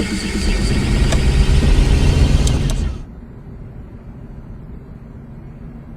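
Vehicle engine and road noise, loud with a deep rumble for about three seconds, then dropping abruptly to a quieter, muffled hum.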